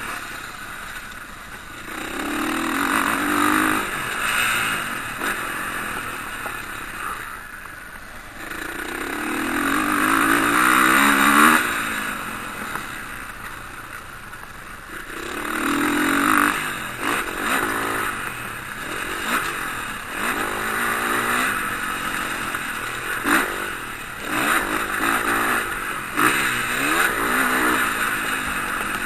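Motocross bikes passing on track, engines revving up and falling away in several swells. The loudest passes come about three, eleven and sixteen seconds in, and several bikes overlap near the end.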